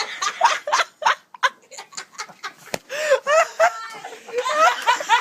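People laughing hard: quick bursts of laughter at first, then high, rising and falling laughing voices.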